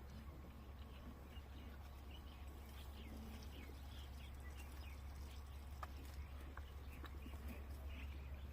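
Small birds chirping, many short quick chirps, with a few sharp clicks over a steady low hum.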